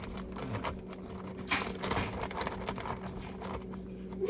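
Light clicks and rustles of kitchen items being handled, over a steady electrical appliance hum.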